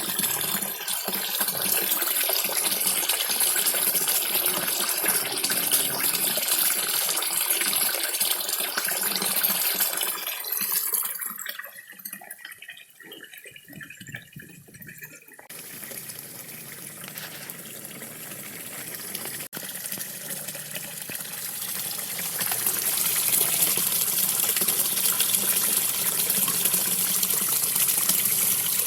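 Steady splashing and trickling of a small waterfall pouring into a koi pond. It grows much quieter and duller for a few seconds around the middle, then builds back to full strength.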